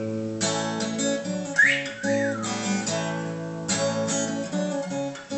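Acoustic guitar strummed, its chords ringing, with fresh strums near the start and again past the middle. About two seconds in, a short rising-and-falling whistle sounds over the guitar.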